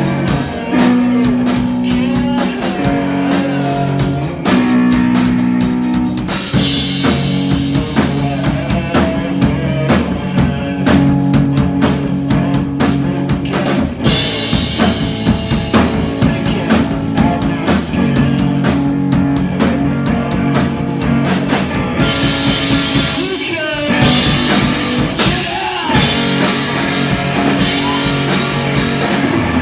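A rock band playing live and loud: electric guitar, bass and a drum kit. The drums and cymbals come in hard about six seconds in, with a couple of brief breaks near the end.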